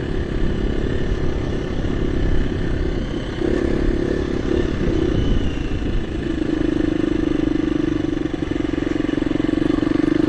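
KTM 350 EXC-F's single-cylinder four-stroke engine running at low, varying throttle on a rough trail, holding a steadier, slightly louder note from about six seconds in.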